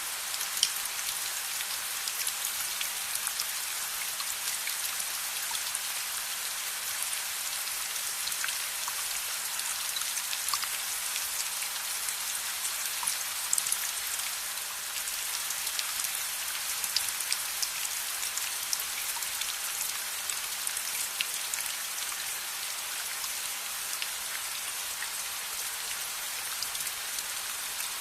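Steady rain, a dense even hiss sprinkled with scattered sharp ticks.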